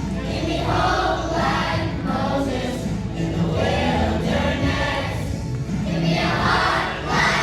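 A children's choir singing a song together with musical accompaniment.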